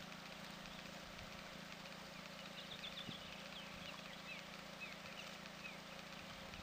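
Quiet outdoor ambience with faint, scattered bird chirps, short high notes sliding down in pitch, from about two seconds in until near the end.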